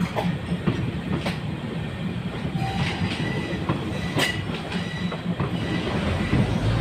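Passenger train running on the rails: a steady rumble with irregular sharp clacks of the wheels passing over rail joints.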